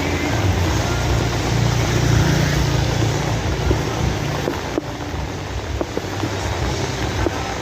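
Rain falling steadily as a dense hiss, with scattered louder drip ticks. A low rumble underneath eases after about three seconds.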